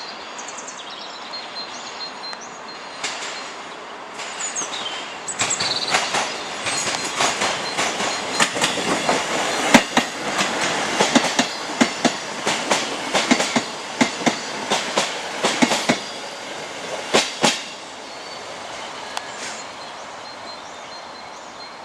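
Diesel multiple unit passing, its wheels clicking over rail joints in a long run of sharp clacks over a steady rumble of the train, which fades about three-quarters of the way in.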